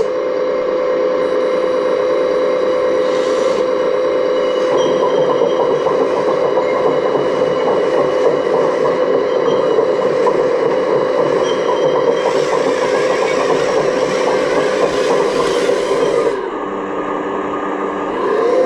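Remote-control model excavator running: a steady motor whine with mechanical clatter. It drops quieter about three-quarters of the way through, and a rising whine follows near the end as the motor speeds up again.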